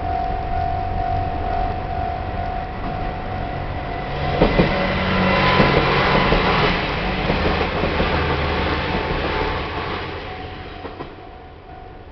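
A train passing through a Japanese level crossing, with its wheels clattering over the rails. It gets loud from about four seconds in and fades away by about eleven seconds. The crossing's warning bell keeps ringing as a steady tone, covered while the train goes by and heard again as it fades.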